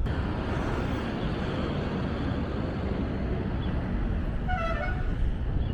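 Steady street traffic noise, with one short vehicle horn toot about four and a half seconds in.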